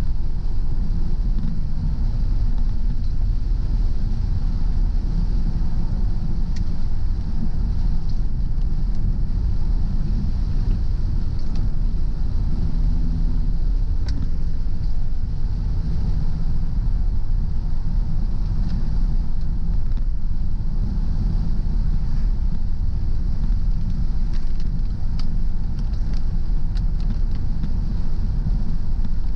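Car driving along a road: a steady low rumble of tyres and engine, with a few faint scattered ticks.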